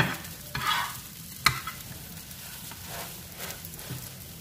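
Egg-coated bread slice sizzling in a frying pan while a metal spatula scrapes and presses on it to cook the egg through. There is a click at the start, a short scrape a little after half a second, and one sharp clack of the spatula on the pan about one and a half seconds in.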